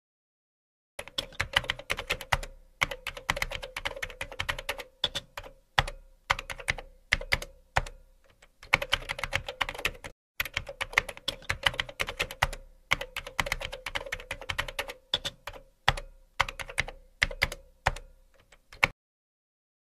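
Keyboard typing sound effect: rapid key clicks in uneven bursts with short pauses, starting about a second in, with a brief break about halfway.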